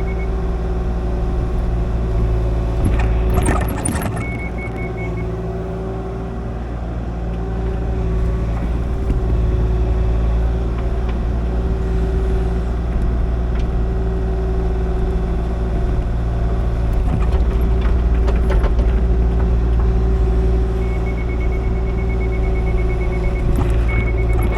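Kubota KX040 mini excavator's diesel engine running steadily as it works, with bursts of clatter twice. A rapid high-pitched beeping comes and goes over the engine.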